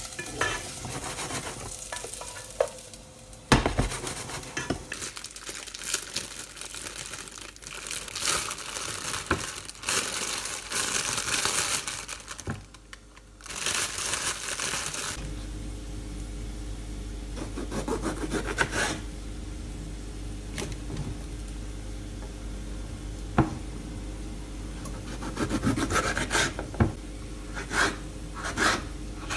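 Home kitchen cooking sounds: food sizzling in a pan while a utensil stirs and scrapes it, with a few sharp knocks. About halfway through, the sizzle gives way to a steady low hum with scattered scraping and rubbing sounds.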